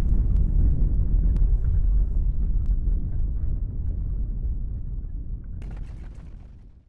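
Deep low rumble with scattered sharp clicks and rattles, fading steadily away, with a short burst of rattling near the end before it cuts off.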